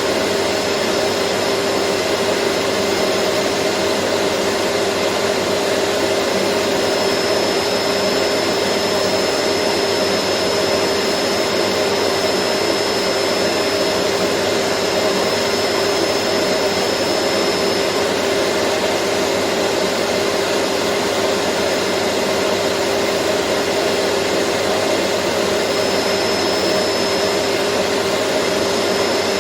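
Vacuum cleaner running steadily: a constant whooshing roar of motor and airflow with a steady hum underneath.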